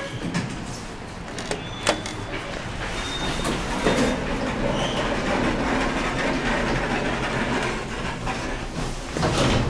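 Hydraulic passenger lift running: the steady hum of its hydraulic pump motor, with a couple of sharp clicks about two seconds in.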